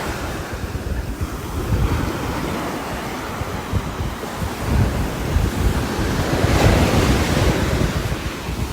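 Storm of strong, gusting wind and heavy rain: a dense rushing noise with a deep rumble. It swells in a stronger gust about two-thirds of the way through.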